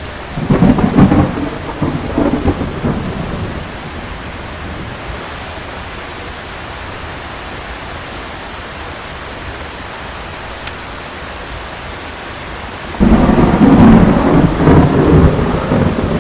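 Steady heavy rain with two rolls of thunder: one starting just after the beginning and fading over about three seconds, the other breaking in suddenly near the end and still rumbling.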